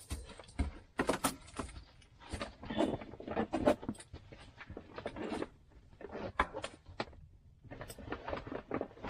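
Rummaging through a backpack: irregular rustling of bags and fabric with sharp clicks and knocks as items are pulled out and set down.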